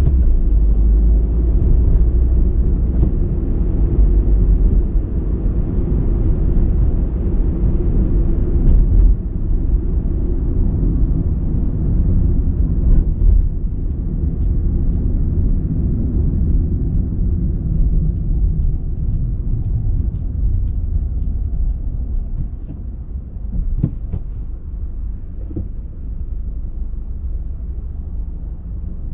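Car driving along a road: a steady low rumble of engine and tyre noise, easing somewhat over the last few seconds, with a few faint ticks.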